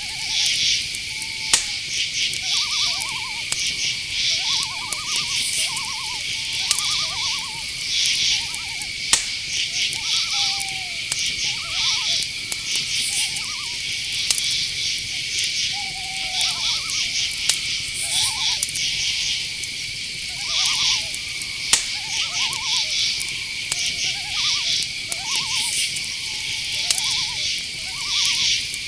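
Night-time insect chorus: crickets chirping in quick pulsed bursts over a steady high-pitched insect drone. Short, quavering calls repeat every second or so underneath, and a few sharp clicks come through.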